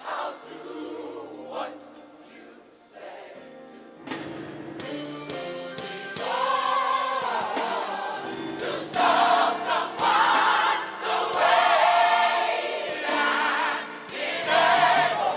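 Gospel choir singing, soft at first and swelling to full voice about five seconds in.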